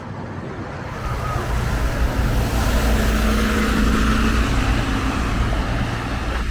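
A motor vehicle passing on a wet road: tyre hiss swells about a second in, peaks mid-way over a low engine hum, then eases off near the end.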